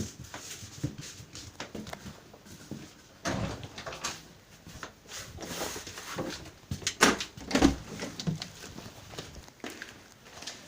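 Irregular thuds and knocks from a neighbouring flat, like people jumping and stomping, with the loudest thumps about three seconds in and a cluster around seven seconds in.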